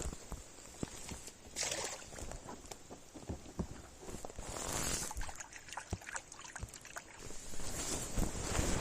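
Scattered small knocks, clicks and rustles of handling in a small boat, with two brief whooshes, one about a second and a half in and another near five seconds.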